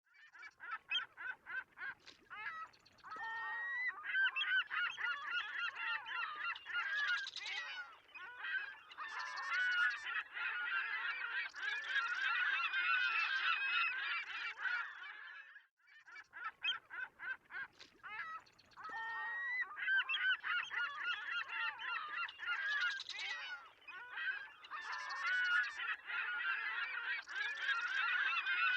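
A flock of gulls calling and squawking over one another in a dense chorus, with a short break about halfway through before the same recording starts again.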